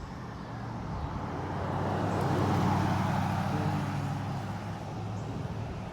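A motor vehicle passing by: a low engine and road rumble that builds to its loudest about midway and then fades away.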